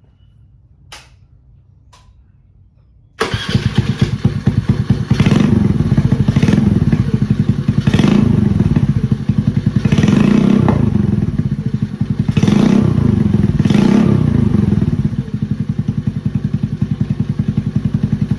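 Honda Navi's small single-cylinder four-stroke engine starting through a Hot Lap aftermarket exhaust with its silencer removed, loud and wild-sounding. It starts suddenly about three seconds in, is blipped up several times, and drops back toward idle in the last few seconds.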